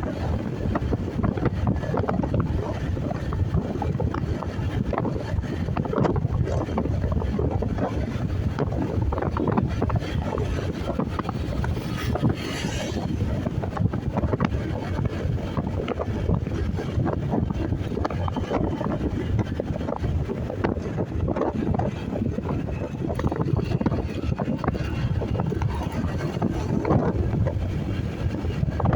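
Heavy wind buffeting on the microphone of a moving motorcycle, with the engine and road noise underneath. A brief higher hiss comes about twelve seconds in.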